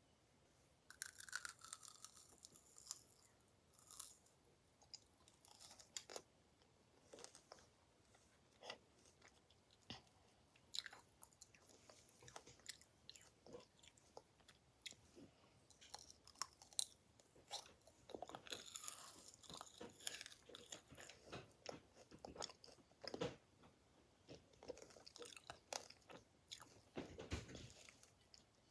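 Chewing and crunching close to the microphone: irregular crisp crunches and clicks, some in quick clusters.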